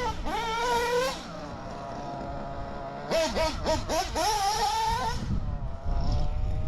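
Reds R5R nitro engine, just rebuilt with new bearings, running with quick throttle blips: its pitch jumps up and falls back in bursts near the start and again in the middle, with a steadier idle between.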